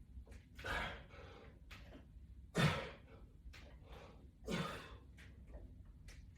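A man's forceful exhalations, three in a row about two seconds apart, the first faint: breathing out with each repetition of a neck exercise against a resistance band.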